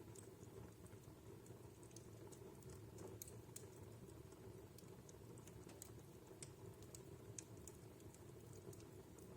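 Wood fire burning in a fireplace, crackling quietly: scattered small pops and snaps of burning logs at irregular moments over a steady low rumble of the flames.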